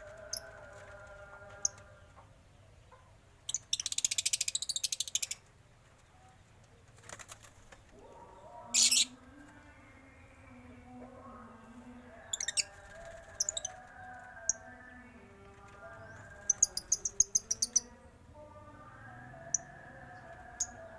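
Mixed aviary birds calling: several loud bursts of rapid, shrill chirping over quieter, lower warbling calls that rise and fall throughout.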